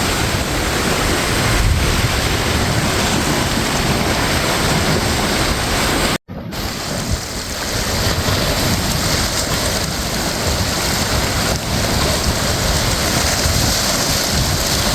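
Loud, steady rush of ocean surf surging and breaking in a sea cave. The sound drops out for an instant about six seconds in, then carries on.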